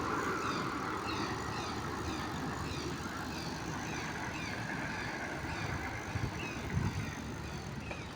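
Steady vehicle and road rumble, with many small birds chirping over it.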